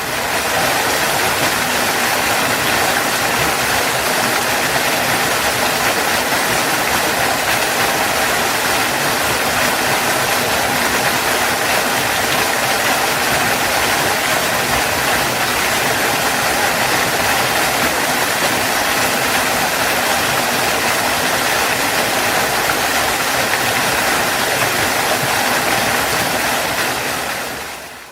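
Waterfall: steady rushing of falling water, fading in at the start and fading out near the end.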